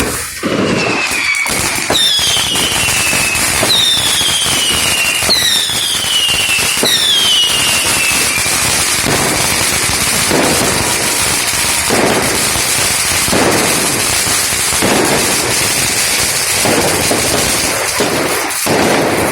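Street fireworks going off all around: dense crackling and popping firecrackers, with five descending whistles over the first eight seconds and several heavier bangs after that.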